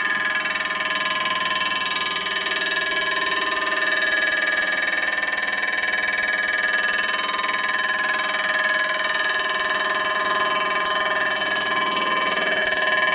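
Machine-tool cutter taking a facing cut across a multiply re-chromed motorcycle primary cover, cutting through the chrome and the copper plating beneath. The cut gives a steady, high-pitched ringing squeal of many tones.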